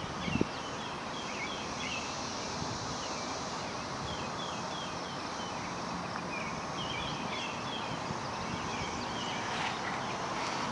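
Birds chirping outdoors, short calls repeated in quick runs, over a steady background hiss, with one brief bump on the microphone about half a second in.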